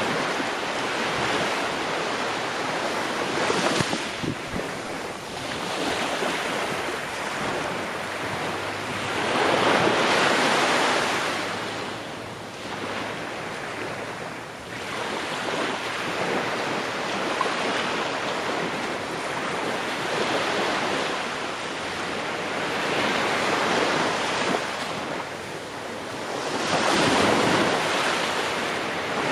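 Ocean waves breaking and washing ashore, a steady surf that swells and falls back every few seconds.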